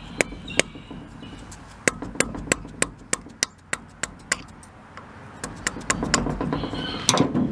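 Repeated sharp metal-on-metal taps, a few a second and unevenly spaced, from striking the half-moon (Woodruff) key out of the drive shaft of a Blackmer TDX2D vane fuel pump.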